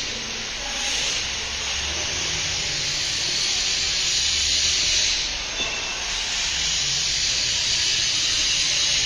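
A steady hiss with a faint low hum beneath it.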